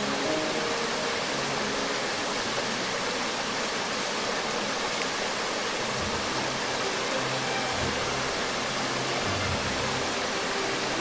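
Waterfall rushing steadily, a constant even roar of falling water, with soft background music faintly underneath in the second half.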